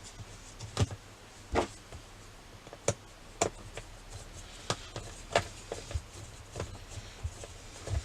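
Irregular clicks and knocks of a part being handled and fitted into the underside of a radio-controlled model car's chassis, about a dozen sharp taps, with a few louder knocks in the first half.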